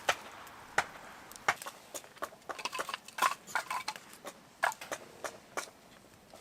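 Irregular light knocks and clicks of hard objects being handled, about a dozen over several seconds, clustered most densely in the middle.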